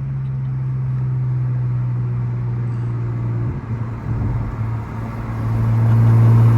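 Big single-turbo BMW 335's inline-six running through a custom exhaust with resonators and mufflers while driving. It holds a steady low note that sags slightly in pitch, breaks up unevenly for a moment around the middle, then settles back, steadier and louder, near the end.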